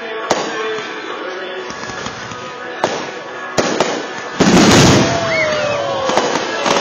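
Aerial fireworks shells bursting: a few sharp bangs in the first four seconds, then a much louder burst about four and a half seconds in that rumbles on for a second or more.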